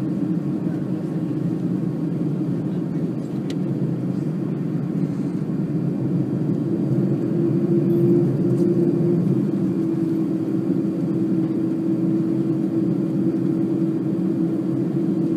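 Jet airliner engines running, a steady low rumble with a constant hum that grows a little louder about halfway through.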